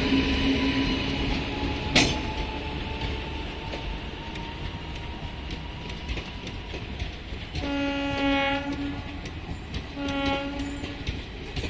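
Heavy freight train rolling past, its wagons clicking and rumbling over the rails. A train horn fades out in the first two seconds, a sharp clank comes about two seconds in, and near the end the horn sounds two short blasts.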